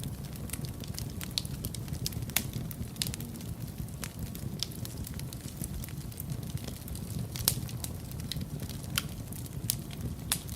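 Wood fire burning in a fireplace, with a steady low rumble of the flames and irregular sharp crackles and pops from the burning logs, a few louder pops standing out.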